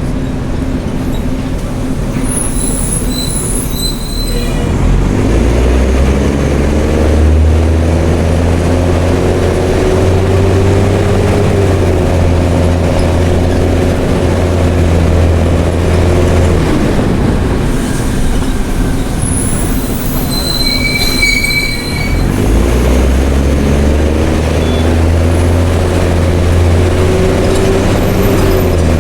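Mercedes-Benz OM366LA turbocharged straight-six diesel of a city bus running through an open, straight exhaust. It pulls away and climbs in revs twice, easing off between. High-pitched brake squeals come near the start and again in the middle.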